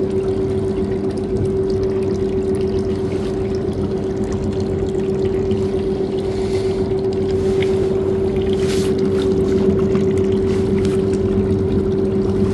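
Shoe-washing machine running with a steady motor hum over a rushing noise.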